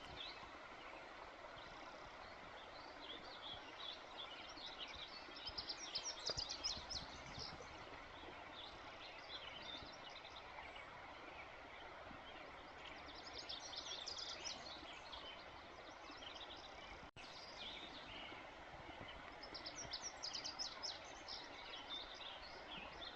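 A songbird singing in three spells of quick, high chirping notes over faint, steady outdoor background noise.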